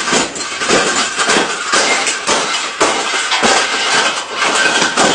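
Wire birdcage being bent and folded by hand: a dense, continuous metallic rattling and clanking of the bars.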